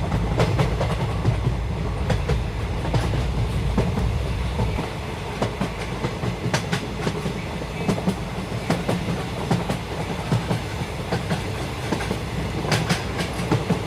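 Train running along the track: a steady low rumble with irregular clicks of the wheels over the rails.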